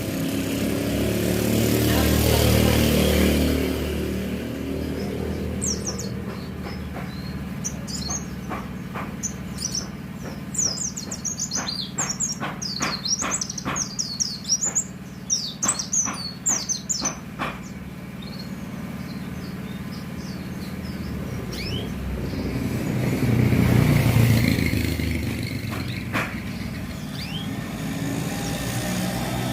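A white-eye (pleci) sings a rapid run of high chirps for about twelve seconds, starting some six seconds in, over steady road traffic. Vehicles pass close by near the start and again about 24 seconds in.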